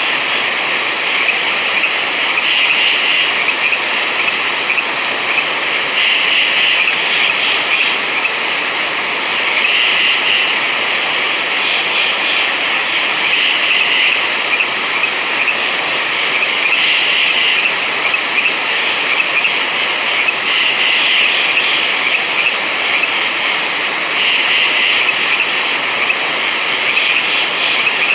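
A dense chorus of frogs calling, forming a continuous din that swells louder every two to four seconds.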